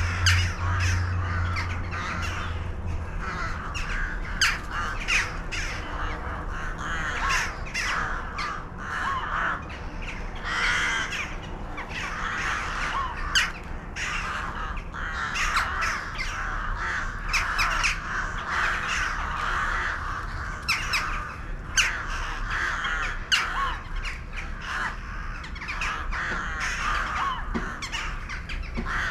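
A flock of birds calling continuously, with many short overlapping calls. A low hum underneath stops about three seconds in.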